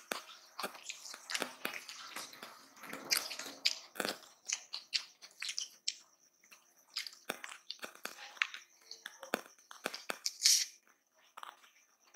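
Close mouth sounds of chewing rice and dal, with wet smacks and clicks at an irregular pace, mixed with the squish of fingers working rice into the dal and radish-leaf bhujiya on the plate. The loudest smack comes about ten and a half seconds in.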